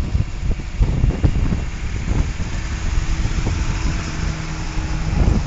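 A vehicle engine running nearby, with a steady hum for a couple of seconds midway, under gusty wind buffeting the microphone during a dust storm.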